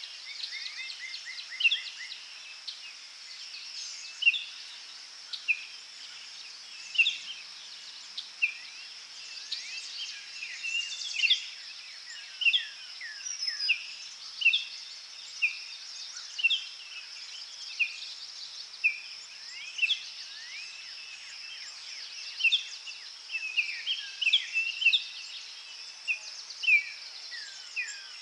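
Forest birds singing: short chirps and quick downward-sweeping whistles, one roughly every second, over a steady high insect drone.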